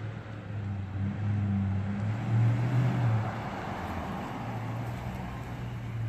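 2017 Toyota Tundra pickup's V8 engine running with a steady low hum, a rushing noise swelling and easing off again about two to four seconds in.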